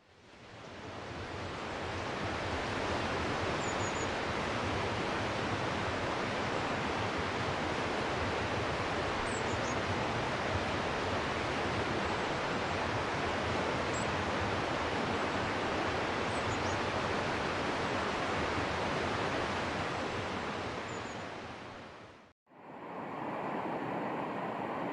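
Steady, even rushing of running water, with a few faint, brief high chirps over it. It fades in at the start and fades out about 22 seconds in.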